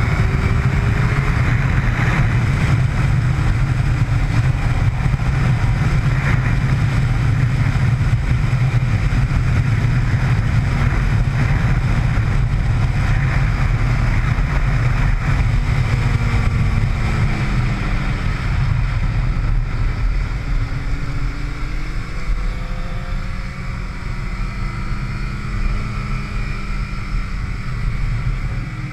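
Sport motorcycle on track, heard from an onboard camera under a heavy rush of wind noise. The engine note rises and falls several times through acceleration and gear changes, and the sound grows somewhat quieter in the last third.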